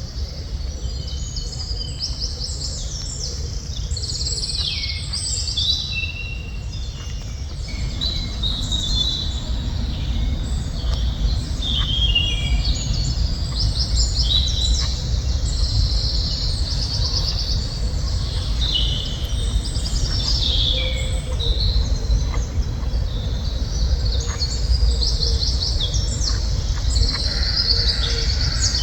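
Several songbirds chirping and singing in quick, overlapping phrases of rapid repeated notes, over a steady low rumble.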